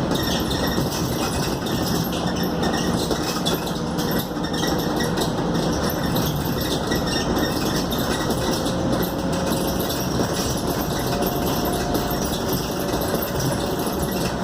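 Scania K280UD double-decker bus heard from inside the cabin while running: steady engine and road noise, with a faint whine coming in about halfway through.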